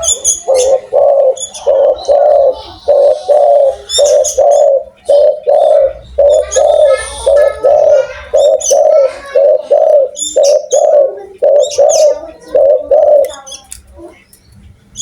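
Spotted dove (tekukur) cooing loudly: a long run of deep coo notes, about two or three a second, that stops about two seconds before the end. Short high chirps from small birds come in here and there.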